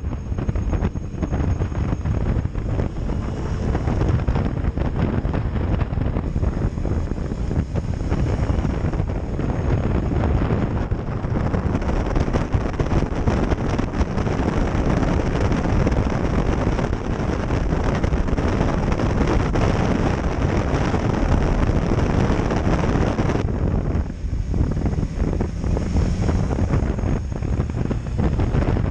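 Motorcycle on the move, most likely the Kawasaki Ninja H2 SX SE: a steady rush of wind on the microphone over engine and road noise.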